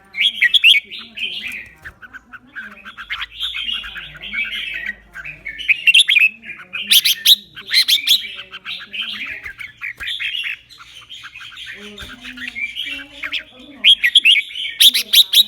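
Red-whiskered bulbul singing: quick runs of chirping, warbling phrases, with a few sharp, loud notes.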